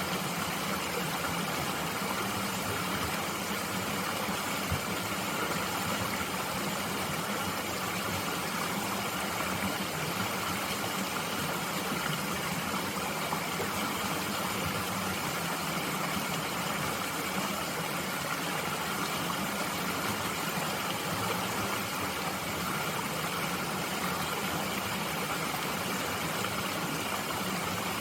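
Mountain stream water flowing steadily, an even rushing sound that stays the same throughout.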